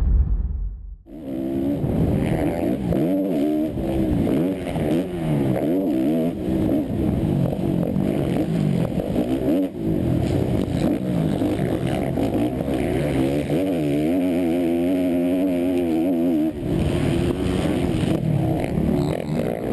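Motocross bike engine heard from on board, revving hard and repeatedly climbing and dropping in pitch as the rider accelerates, shifts and backs off around the track. A loud low rumble comes first, before the engine sound settles in about a second in.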